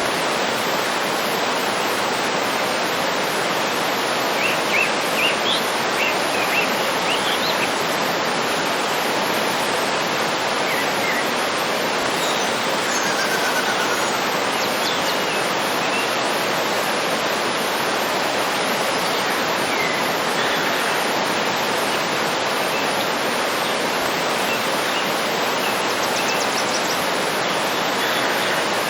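Waterfall rushing steadily, with a few faint bird chirps and a short trill over it.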